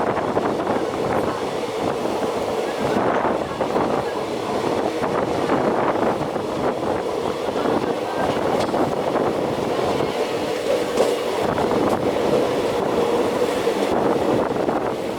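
Passenger express train arriving, its coaches rolling past with a steady rumble of wheels on rails and a faint steady whine.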